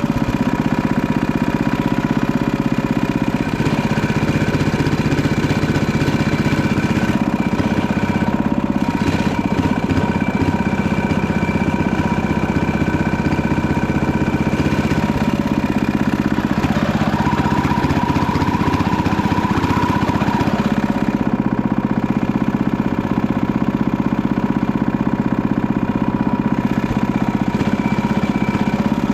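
Small engine of a Panzer T70 garden tractor running steadily at an even speed.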